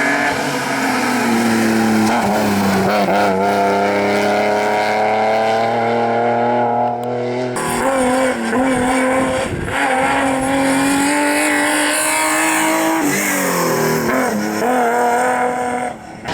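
Rally car engines at high revs on a special stage, pitch climbing and dipping with gear changes and throttle lifts. The sound changes abruptly about halfway through as a different car takes over.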